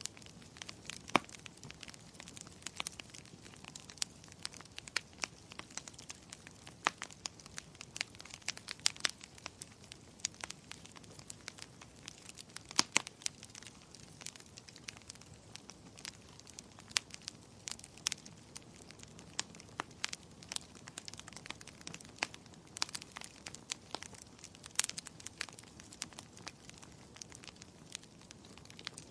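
Wood fire crackling in a fireplace: a steady low hiss with frequent sharp, irregular pops and snaps, a few louder ones standing out.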